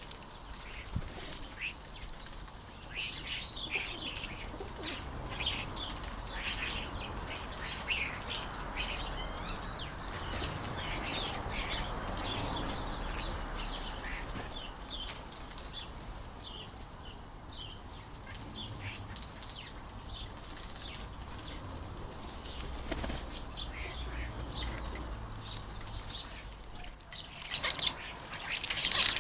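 Starlings and jackdaws at garden feeders: many short chirps and calls with wing flapping, then loud harsh screeching bursts near the end, typical of starlings fighting over a feeder.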